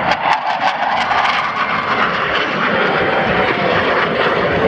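Blue Angels F/A-18 Hornet jets passing overhead: a steady jet roar that crackles during the first second or so.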